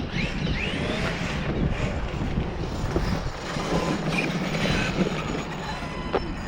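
Electric radio-controlled Hyper MT2 monster truck driving, its motor whining up in pitch a few times over a steady low rumble, with scattered clicks.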